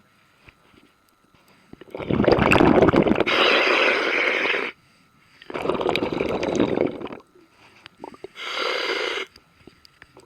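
Scuba diver breathing through a regulator underwater: three rushes of bubbling, hissing breath noise with quiet pauses between them, the first the longest and most crackly.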